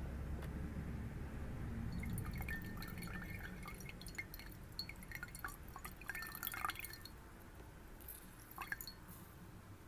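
Water dripping and trickling in a glass, with quick light clicks and short high pings that come thick for a few seconds, then thin out to a few near the end. A low hum stops a couple of seconds in.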